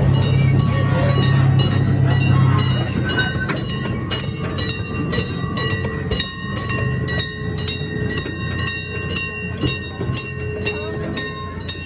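Zoo miniature train rolling along its track. A low engine hum fills the first few seconds, then a steady run of rail-joint clicks, about three a second.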